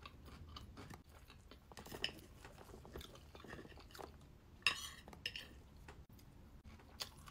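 Close-up chewing of cheese-topped toast, with a knife and fork scraping and clinking on a ceramic plate. The loudest sound is a sharp cutlery-on-plate clink about two-thirds of the way through.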